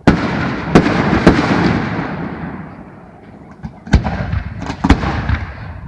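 Aerial fireworks bursting: a sharp bang at the start and two more within about a second, then a long fading rumble. A second group of bangs with smaller sharp cracks comes about four to five seconds in.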